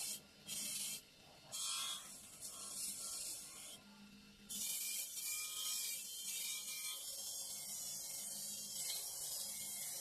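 Polishing machine buffing the metal outer shell of an electric kettle: a harsh, hissing rub. It starts and stops a few times in the first half, then runs continuously.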